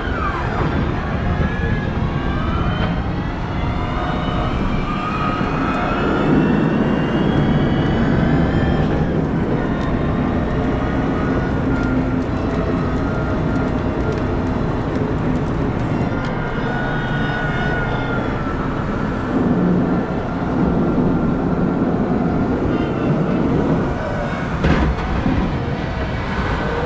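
Cat 972M XE wheel loader working under load: its diesel engine runs with a heavy, steady low rumble, and its pitch rises and falls again and again as the machine works.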